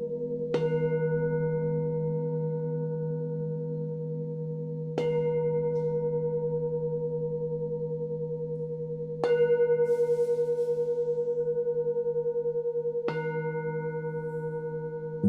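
Singing bowls struck one after another, four strikes about four seconds apart, with another just at the end. Each strike rings on in several steady tones that fade slowly, with a wavering pulse as the bowls' tones overlap.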